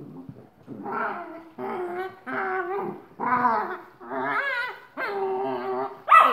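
Puppy whining in a run of about seven drawn-out, wavering cries, one after another with short gaps.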